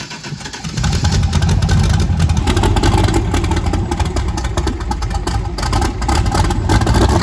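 Twin-turbo LSX V8 in a Nissan 240SX firing up: it cranks, catches about a second in and then runs loud and a little uneven. This is its first start on the new turbo setup, running on an untuned base startup tune.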